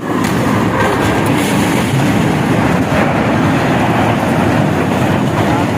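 Train passing over the rails, a loud, steady rumble and rush of wheels on track.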